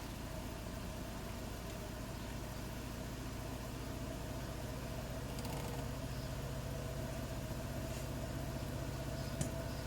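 Bosch WAT286V0 washing machine running steadily, its EcoSilence Drive brushless motor turning the drum with a constant low hum. The sound grows a little louder about halfway through, and there is a single short click near the end.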